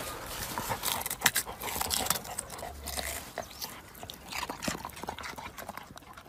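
A dog scrabbling in loose garden soil and leaves as it works a white root out of the earth: a run of irregular scraping and crackling clicks that thins out and fades toward the end.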